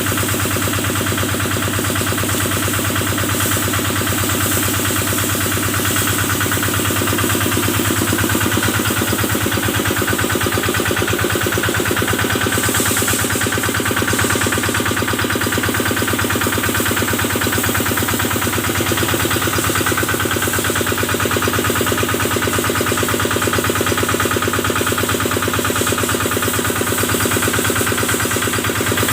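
Small Kubota diesel engine running steadily at a constant speed, powering the water sprayer.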